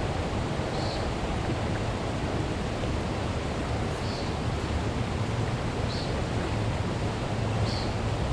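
Steady rushing outdoor noise, heaviest in the low end, with four faint short high chirps about two seconds apart.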